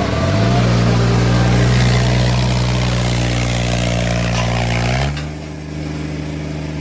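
Tractor diesel engine running steadily with strong revs, its pitch stepping up about half a second in and again near five seconds, after which it runs a little quieter.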